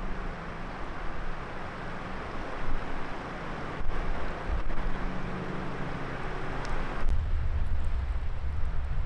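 Wind buffeting the microphone: a steady rushing noise with a low rumble that strengthens about seven seconds in, as the hiss above it drops away.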